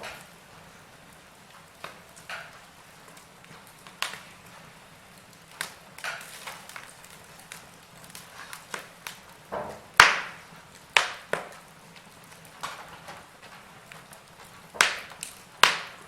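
Wood fire in a fireplace crackling: irregular sharp pops and snaps at uneven gaps, the loudest ones about ten seconds in and twice near the end.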